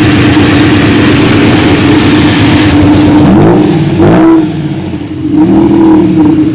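Car engine running loud at close range, then revved up and down in short rises and falls several times during the second half.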